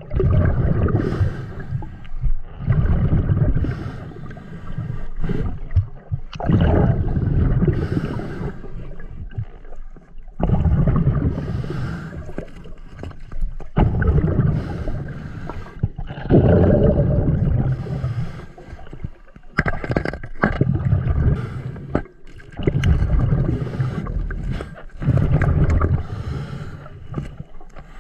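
Scuba diver's regulator heard underwater: exhaled bubbles rumble out in surges every two to three seconds, with quieter breaths drawn in between.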